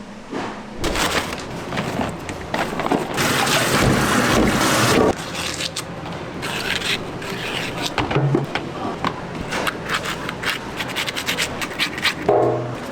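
Kitchen prep noise: scraping, rubbing and a quick run of small clicks and knocks. A loud hiss runs from about one second in to about five seconds in.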